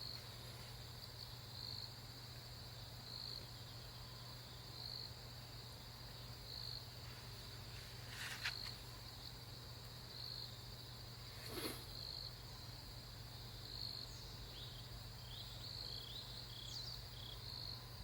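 Crickets or similar insects trilling steadily in a high, continuous chorus that swells in regular pulses about every second and a half, over a low steady hum. Two sharp knocks come about eight and twelve seconds in.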